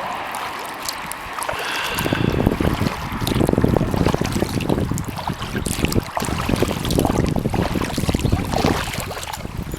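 Kayak paddling on a pond: paddle blades dipping and dripping with small splashes, while wind gusts buffet the microphone in surges.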